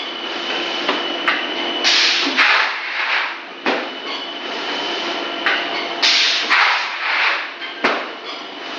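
Extruder machine running through a repeating cycle of about four seconds: a sharp knock, then a burst of hissing, over a steady high whine. The cycle comes round twice.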